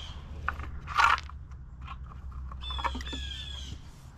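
A bird calling in two runs of quick, harsh, slightly falling notes, one at the start and one near the end. About a second in there is a short, loud noisy clatter, over a steady low rumble.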